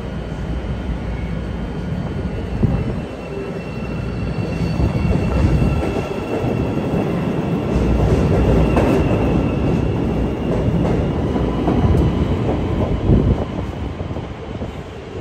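CTA 5000-series rapid-transit train pulling out of the station and picking up speed past the platform: wheels rumbling on the rails with a few sharp clanks and a steady high whine. It grows louder as the cars pass and fades as the last car leaves.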